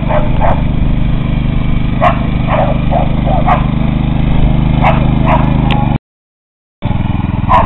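Small mini bike engine running steadily, with a dog barking in short, sharp yips about eight times over it. The sound cuts out completely for under a second about six seconds in, then the engine comes back.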